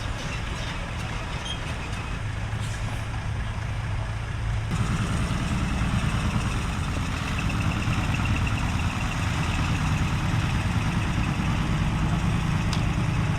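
Truck engine running steadily, growing louder and fuller about five seconds in.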